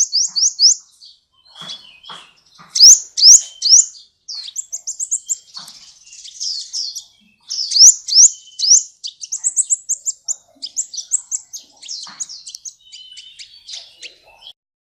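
Sunbird (the songbird Indonesian keepers call 'kolibri') singing hard: fast, high phrases of rapidly repeated sweeping notes, several a second, broken by short pauses.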